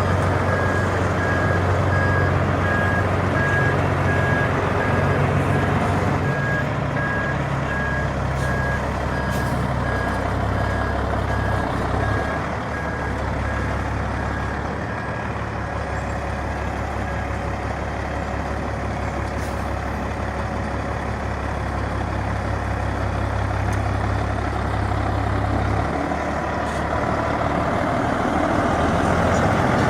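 A 2004 Peterbilt truck's diesel engine running steadily, with a reversing alarm beeping at an even pace that stops a little past halfway through.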